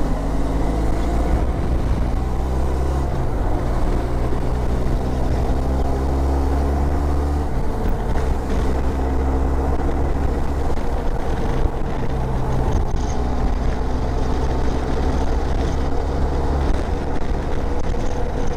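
Motorcycle engine running at road speed, its pitch shifting a few times with the throttle, under a steady rush of wind and road noise.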